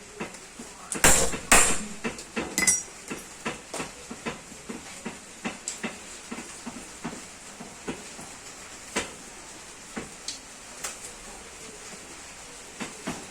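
Metal tools and parts knocking and clinking during work on a sugarcane press: two loud strikes about a second in, then lighter irregular taps and clinks.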